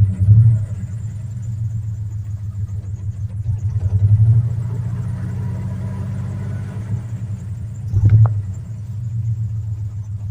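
1982 Ford F100's carbureted 3.8 V6 running cold soon after a cold start, a steady low rumble that swells briefly three times: right at the start, about four seconds in and about eight seconds in.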